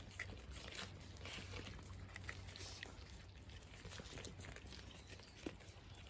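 Cats eating dry food: faint, irregular crunching clicks, over a steady low hum.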